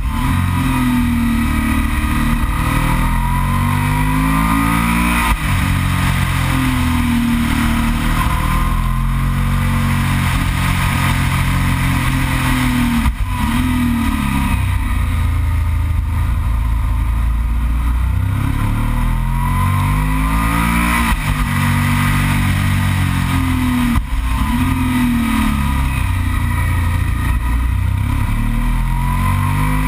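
Yamaha TDM 900's parallel-twin engine under way. Its pitch repeatedly falls and climbs again as the bike slows for and pulls out of a series of bends, with brief drops in level about 13 and 24 seconds in.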